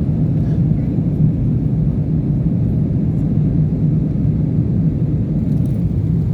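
Airplane in flight: a steady low rumble that holds even throughout.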